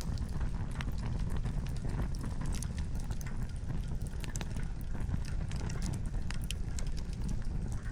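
Wood campfire crackling, with many irregular sharp snaps and pops of burning firewood over a steady low rumble.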